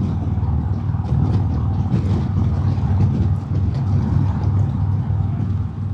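Harley-Davidson Road King's Milwaukee-Eight V-twin engine running steadily while riding, with a low, even engine note under a wind rush on the helmet microphone.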